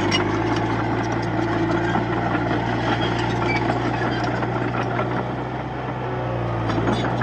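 Heavy diesel earthmoving machinery engine running steadily, easing off a little about five seconds in and picking up again near the end.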